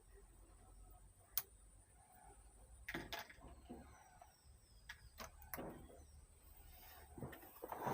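Quiet, scattered clicks and knocks of hand tools and metal parts as a mixing console is taken apart, with a sharp click about a second and a half in and a few rattling handling noises later.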